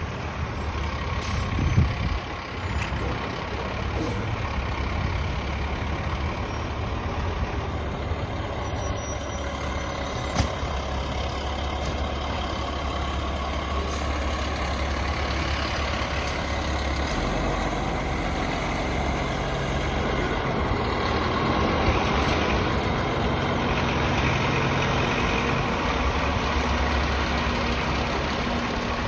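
Fire engine's diesel engine running steadily at low speed, with a few short sharp sounds over it, the loudest about two seconds in.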